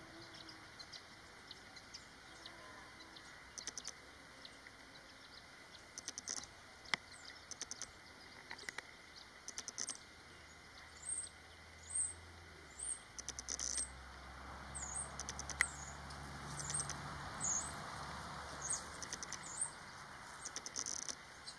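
Faint outdoor ambience: short high-pitched bird chirps and pulsed, buzzy insect-like bursts recur throughout. A low hum comes in about halfway through and fades before the end.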